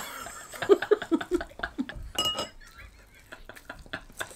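Crisp clicking and crackling of a dried insect being chewed, with a quick run of short vocal sounds about a second in.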